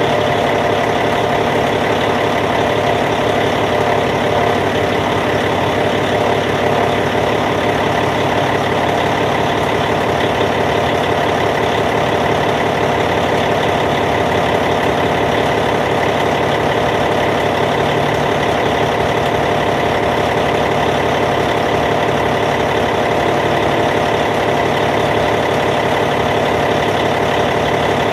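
Caterpillar C15 inline-six diesel engine of a Cat D8T bulldozer idling steadily, with an even, unchanging tone.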